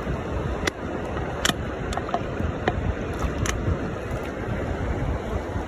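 Steady rush of a shallow creek mixed with wind on the microphone, with sharp clicks and knocks at irregular intervals of about half a second to a second.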